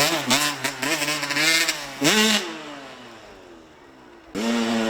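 Small dirt bike engine revving hard, its pitch rising and falling with the throttle, then dropping and fading away as the bike rides off. About four seconds in it cuts suddenly back to a loud, steady engine.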